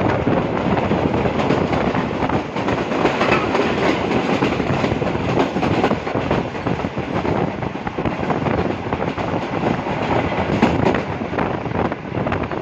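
Tezgam Express passenger train running at speed, heard from an open coach doorway: a steady rush and rumble with the wheels clattering over the rail joints.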